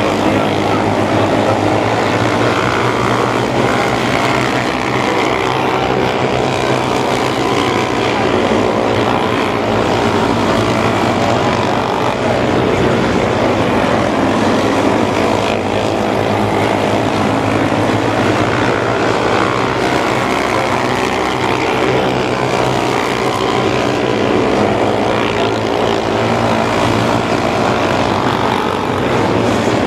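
Several mini sprint race cars' small engines running at racing speed around a dirt oval, their overlapping drone rising and falling in pitch as the cars pass.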